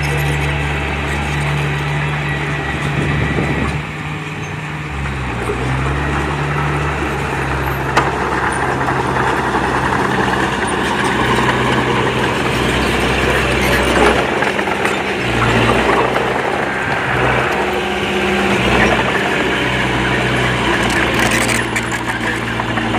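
Heavy diesel engine of earthmoving machinery working under changing load, its pitch stepping up and down several times, with a steady mechanical clatter over it.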